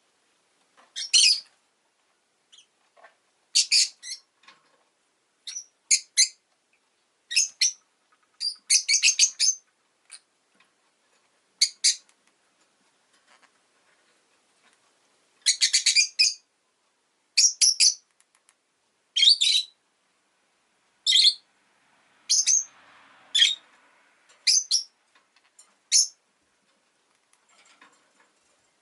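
Rosy-faced lovebird chirping: short, sharp, high-pitched calls, single or in quick clusters, every second or two with short pauses between.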